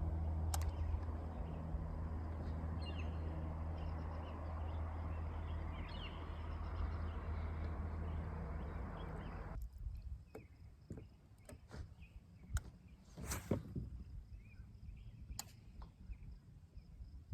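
Boat motor running steadily with a low hum, cutting off suddenly about ten seconds in. After that, a few light clicks and knocks.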